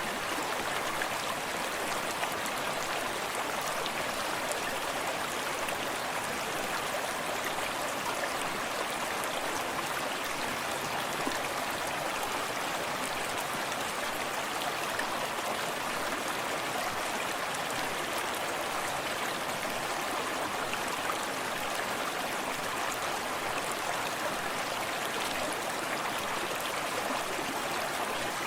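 Small forest stream flowing steadily, an even rush of running water with fine splashing and trickling over stones.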